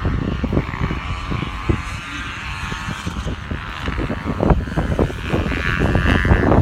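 Dirt bike engines running at high revs as the bikes race on ice, a high engine whine over an uneven low rumble that grows louder near the end.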